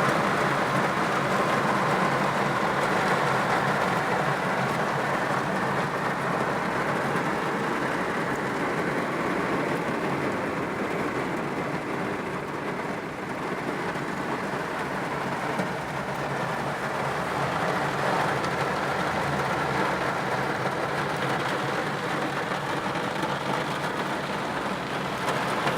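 Heavy summer rain falling steadily, a continuous even rushing hiss.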